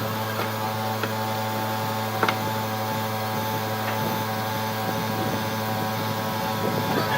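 A steady electric motor hum of a workshop machine, unchanging in pitch, with a few light clicks, the sharpest a little over two seconds in.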